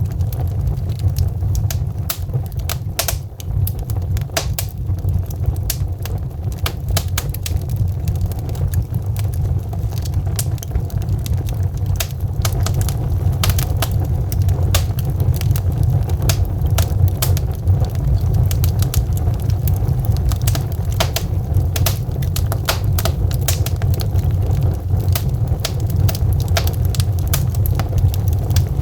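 Burning logs in a fireplace crackling, with frequent sharp pops and snaps over a steady low rumble of the fire.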